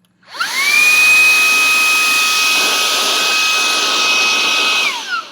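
Shark WandVac cordless handheld vacuum switched on: its motor spins up quickly to a steady high whine over rushing air, runs for about four and a half seconds, then is switched off and winds down with a falling whine. Pretty loud.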